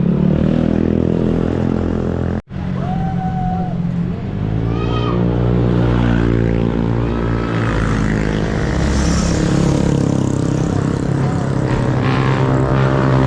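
Motorcycle engine running while riding, its pitch shifting with speed, with a brief dropout about two and a half seconds in.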